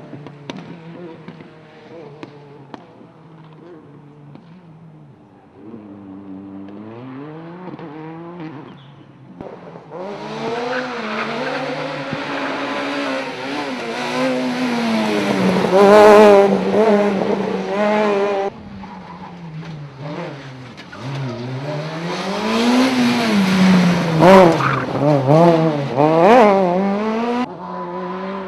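Rally cars on a tarmac circuit passing in turn, engines revving up and down through gear changes, with some tyre squeal as they slide through the corners. The sound changes abruptly several times, as one car's pass gives way to the next.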